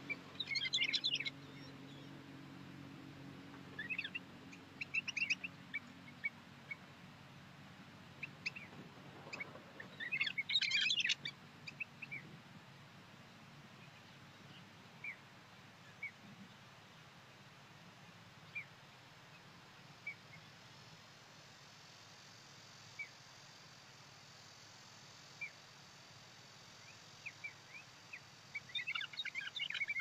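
Small songbirds chirping: quick bursts of high chirps about a second in, around five and ten seconds in and again at the end, with single short chirps every couple of seconds in between.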